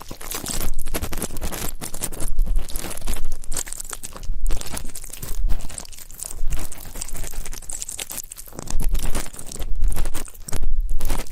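Ear-cleaning ASMR sounds: an ear pick scratching and rubbing close against a microphone's ear, in repeated strokes about once a second with short pauses between them.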